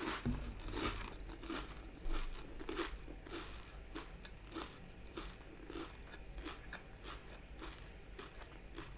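A person chewing crispy fried takeaway food close to the microphone: a firm crunching bite about two seconds in, then a steady run of crunchy chews that slowly get quieter.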